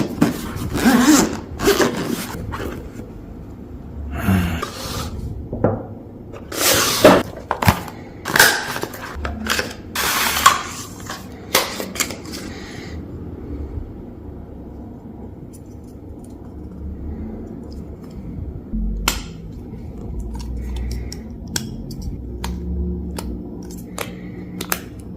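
Objects being handled: a run of scrapes, knocks and clatters, dense for the first dozen seconds and then only a few scattered clicks over a low steady hum.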